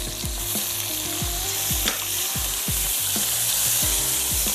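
Chopped tomatoes and ginger-garlic paste sizzling in hot oil in a nonstick wok while a spatula stirs them. The hiss gets louder about half a second in. The masala is being fried over raised heat.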